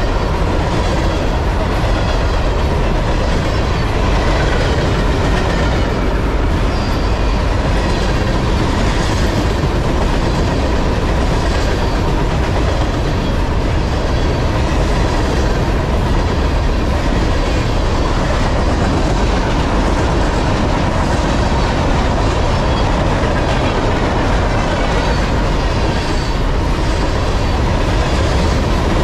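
A long freight train's cars rolling past: a steady rumble of steel wheels on rail, with repeated clickety-clack as the wheel sets cross rail joints.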